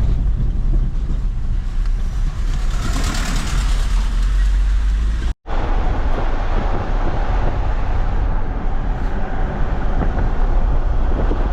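Volkswagen Amarok pickup driving: a steady, loud rumble of engine and road noise, with a brief total drop-out about five seconds in.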